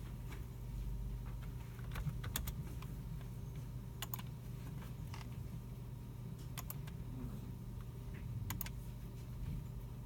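Scattered keyboard typing and mouse clicks, short clusters of sharp clicks every second or two, over a steady low hum.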